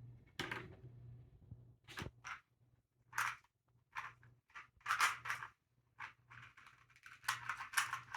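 A freshly lubed speed puzzle being turned quickly during a timed solve: irregular short bursts of clicking and clacking as the layers are flicked, with gaps between turns and a faint low hum underneath.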